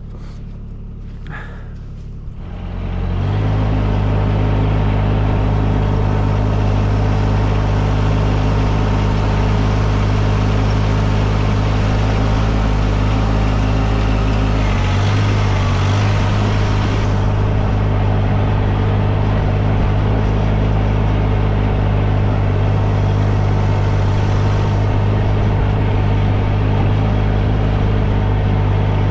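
Tractor engine running under way, throttled up about three seconds in and then holding a steady, even drone.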